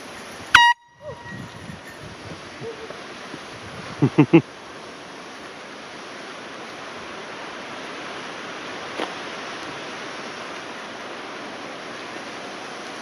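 An air horn gives one brief, very loud toot about half a second in, as a bear-scaring signal. About four seconds in there are three quick loud sounds, followed by a steady rushing noise.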